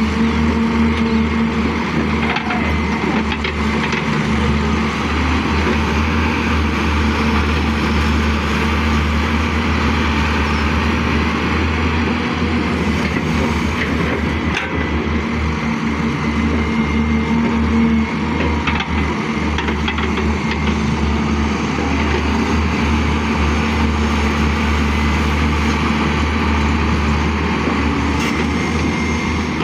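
Caterpillar excavator's diesel engine running steadily at work, a loud even drone with a strong deep hum.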